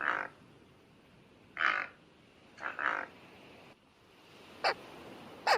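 Frog croaking, three raspy calls in the first three seconds, the last one doubled. After a cut, a dog gives two short, sharp yips falling in pitch near the end.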